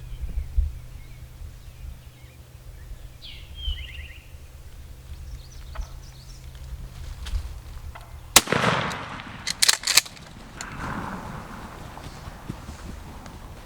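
A single 12-gauge shotgun shot about eight seconds in, a sharp crack with a short echo, followed about a second later by a few quick sharp knocks. A small bird chirps a few short notes before the shot.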